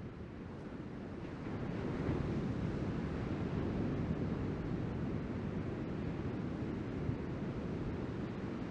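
Ocean surf breaking and washing, swelling louder about a second and a half in, with wind rumbling on the microphone.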